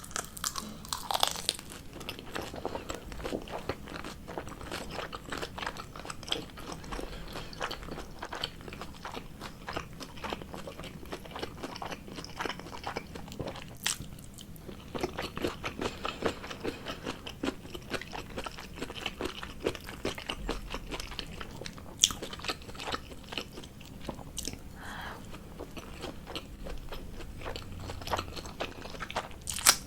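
A person chewing and biting food close to the microphone: continuous wet, crunchy mouth sounds with a few sharper, louder clicks.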